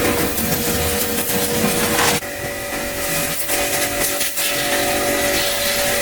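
A small electric motor running steadily under a rough, noisy hiss. Its pitch steps up about two seconds in, and a few short clicks come through.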